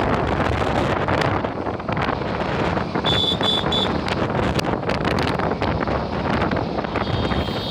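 Wind buffeting the microphone while riding, over steady traffic and road noise, with sharp crackles throughout. About three seconds in there are three short high beeps.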